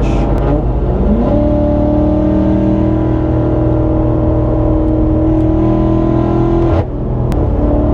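BMW F90 M5 Competition's twin-turbo 4.4-litre V8 under acceleration: the engine note rises from about a second in and climbs steadily for several seconds, breaks off briefly about seven seconds in at a gear change, then pulls again at a lower pitch.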